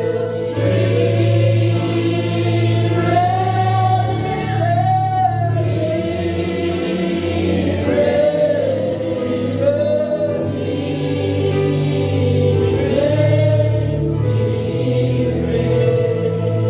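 Choir singing a slow gospel worship song, with long held notes over a steady low accompaniment.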